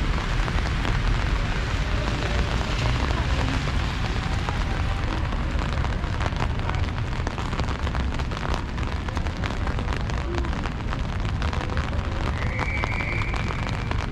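Rain falling: a steady hiss with many small drop ticks over a low, constant rumble. A brief high tone sounds about twelve seconds in.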